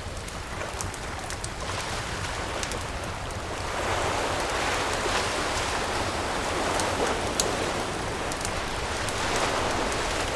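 Ocean waves washing up the beach in slow swells of noise, with a campfire crackling and popping in small sharp ticks over them.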